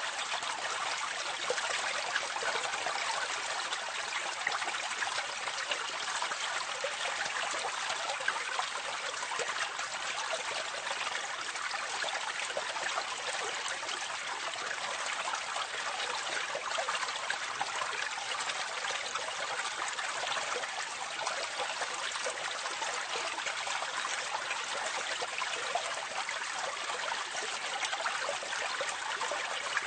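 Water pouring steadily from a drainpipe into a gully, heard close up, with a continuous splashing trickle and fine irregular spatter.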